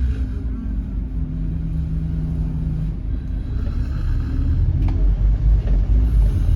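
Scania N270UD double-decker bus's five-cylinder diesel engine running under way, heard from inside the passenger cabin: a steady low rumble with an engine drone, and a couple of light knocks near the end.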